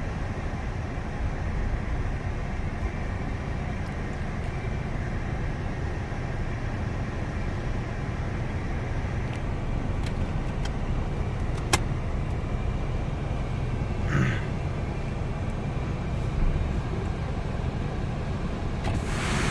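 Steady low rumble of a car heard from inside the cabin, with a single sharp click about twelve seconds in.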